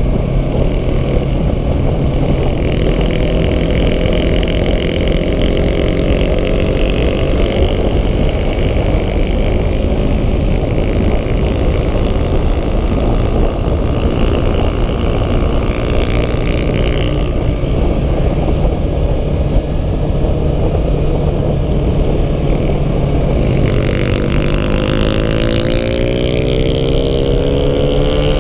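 Yamaha R3's 321 cc parallel-twin engine running at road speed under a heavy rush of wind on the microphone. Near the end, the engine pitch rises steadily as the bike accelerates.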